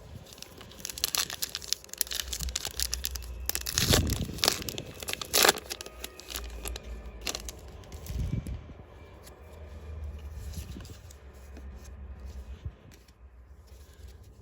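A Disney Lorcana booster pack's foil wrapper being torn open and crinkled, with the sharpest rips about four and five and a half seconds in. Quieter rustling follows for the rest of the time.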